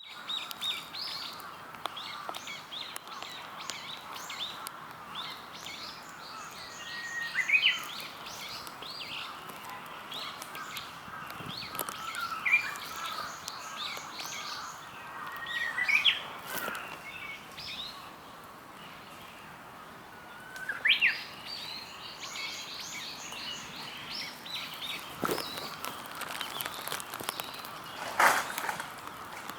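Japanese bush warbler singing its ho-hokekyo song four times, each phrase a held whistle that sweeps up into a sharp ending, over quicker chirping of other small birds and steady background noise. Two short louder noises come near the end.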